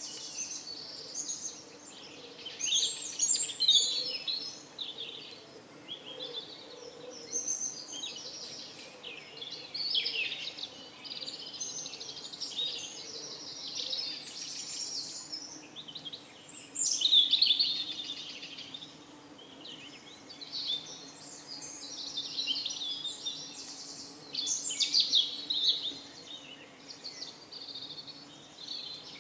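Several songbirds chirping and trilling over one another, with louder phrases coming every few seconds. A faint steady low hum lies underneath.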